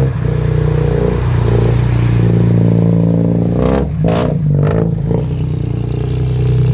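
Heavy vehicle engine running steadily under load on a slippery climb, with a few short clattering bursts about four seconds in.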